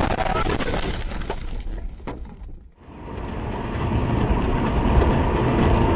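Car crash: crunching and clattering of the impact and breaking parts, dying away about two and a half seconds in. After a brief break, the steady running noise of a car on the road.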